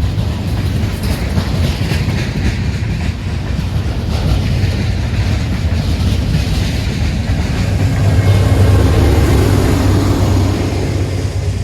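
Train rolling past on the rails, its wheels clicking over rail joints, with a steady low rumble. It is loudest from about eight to ten seconds in.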